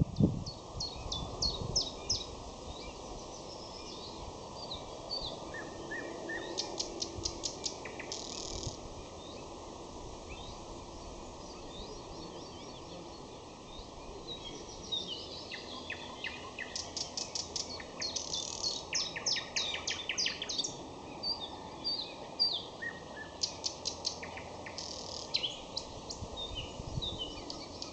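Nightingale singing: phrases of rapid clicking trills and short whistled notes, with pauses between phrases, over a steady low background noise.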